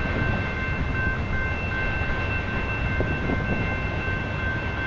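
Freight train cars rolling past in a steady rumble, with a thin, steady high-pitched whine over it.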